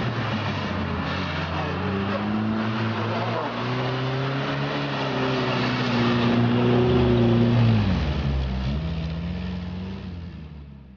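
UAZ off-road vehicle engines revving hard in the mud, the pitch rising and holding, then dropping sharply about eight seconds in; the sound fades out near the end.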